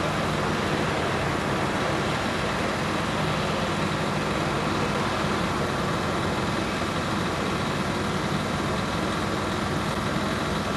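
Steady engine noise: an even, unbroken hiss with a low hum beneath it.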